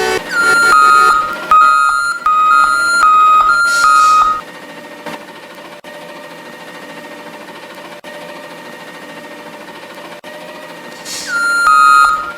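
A truck's electronic warning beeper sounding a run of about five evenly spaced, single-pitch beeps, with a hiss at the start and end of the run. A steady hum follows, and the beeping starts again near the end.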